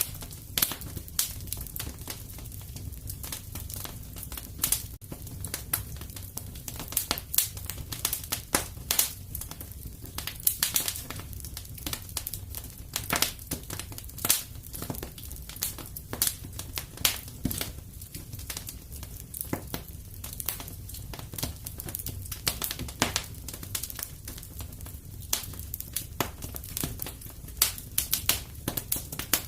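Wood fire crackling in a fireplace: frequent irregular sharp pops and snaps over a steady low rumble of flames.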